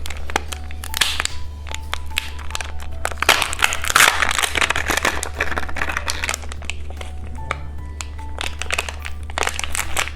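Plastic wrapper of a candy surprise egg crinkling and crackling as it is handled and torn open, with a constant dense run of small crackles and faint background music.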